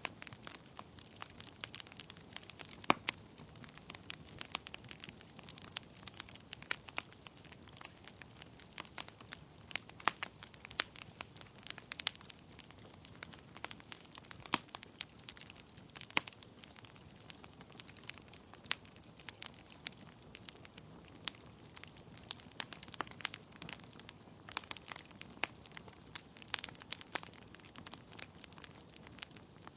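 Wood logs burning in a fireplace, crackling with irregular sharp pops and snaps over a faint steady hiss.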